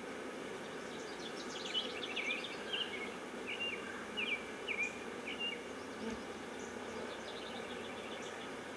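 Honeybees humming steadily around an open hive. A bird chirps in a quick run of short calls a second or two in.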